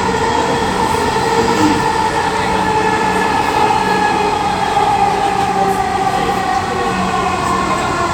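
Dhaka Metro Rail electric train running between stations, heard inside the carriage: a steady whine of several tones over a constant rumble of wheels on track.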